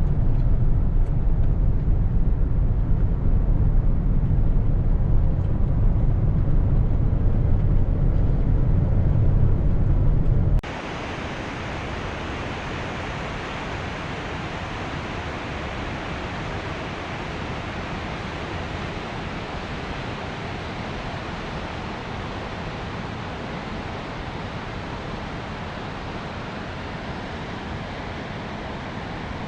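Steady rush of a waterfall. For about the first ten seconds it is a loud, deep rumble, then it cuts abruptly to a quieter, brighter, even hiss of falling water.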